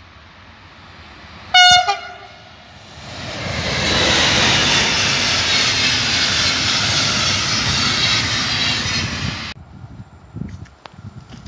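Electric passenger train of red coaches sounding one short, single-tone horn blast, then passing close by at speed with a loud, steady rush of wheels and running gear. The train noise cuts off abruptly near the end, leaving only quieter outdoor sound with faint knocks.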